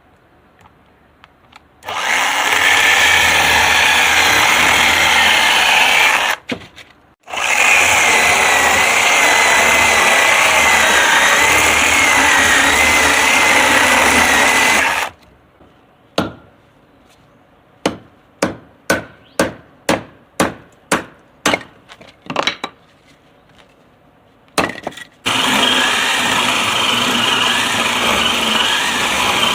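Bosch UniversalChain 18 cordless 18 V chainsaw running in two long stretches, its motor whine wavering in pitch, then about ten short sharp bursts roughly two a second, then running steadily again near the end.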